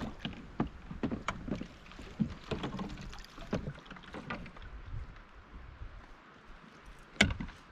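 Irregular knocks and clicks of a kayak and fishing gear while a fish is being fought, with one loud sharp knock near the end.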